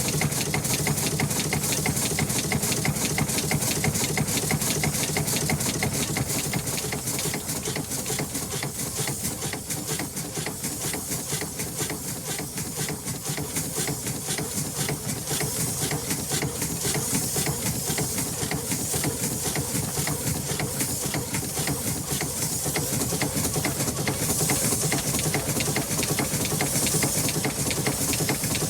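An engine running steadily, with a fast, even pulse and a hiss on top. It eases off a little partway through and picks up again near the end.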